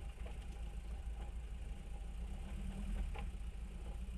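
Fiat 132 track car's engine idling steadily, with a few faint ticks.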